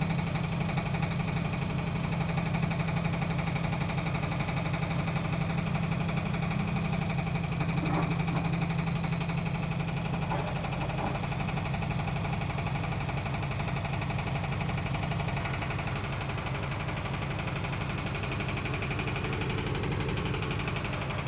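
Logik L814WM16 washing machine running with a steady, rapidly pulsing grinding noise, which the owner calls awful and extremely grinding; it eases slightly after about fifteen seconds.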